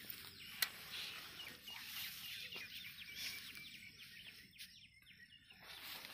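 Faint bird calls, a quick run of short falling chirps through the middle, with one sharp click about half a second in.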